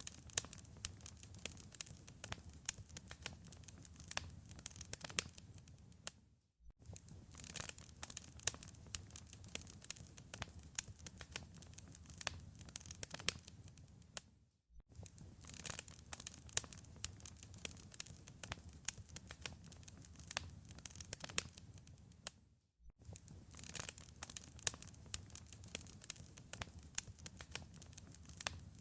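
Wood fire in a fireplace crackling, with many sharp pops and snaps over a low rumble. It cuts out briefly three times, about every eight seconds, as the recording loops.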